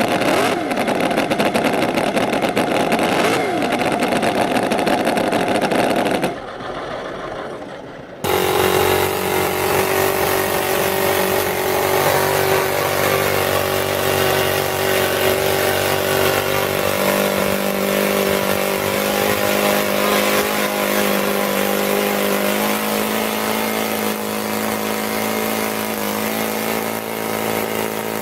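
A running internal combustion engine at a busy, high pitch, then a short quieter stretch. About eight seconds in it cuts to a different engine running steadily at an even speed.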